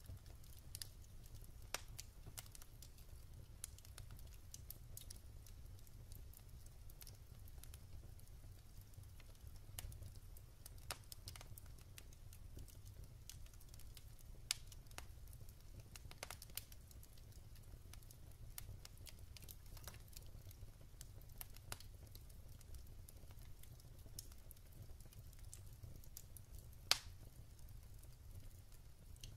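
Wood fire burning in a fireplace: irregular sharp crackles and pops of the burning logs over a steady low rumble of the flames, with one louder pop near the end.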